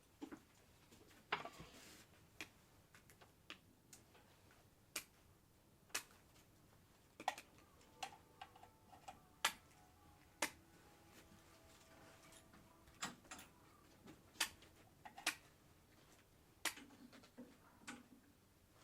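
Irregular sharp clicks and light taps, roughly one a second, over a quiet background, with faint held tones in the middle.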